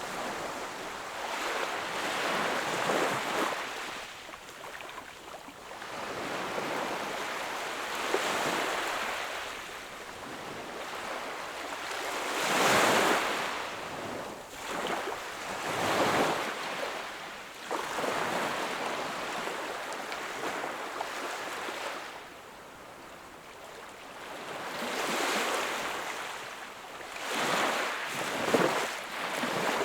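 Small waves washing onto a shore, each swelling and fading over a few seconds, with the louder breaks about 13, 16 and 28 seconds in and a lull around 22 seconds.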